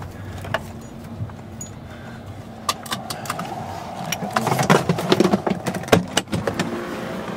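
A car engine idling in the stopped car, with a few sharp clicks. From about four and a half seconds in come a louder stretch of rustling and several hard knocks.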